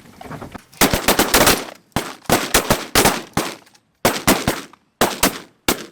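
Volley of shotgun fire from several hunters shooting at once: many sharp shots overlapping in quick bursts, starting about a second in and going on to the end.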